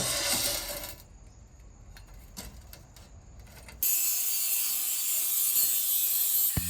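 Metalworking tool sounds: a steady hiss, then a quieter stretch with a few sharp clicks, then a louder high-pitched hiss that starts suddenly and runs until just before the end.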